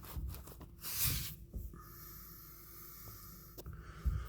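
Light rustling and small clicks of handling, with a faint steady hiss through the middle.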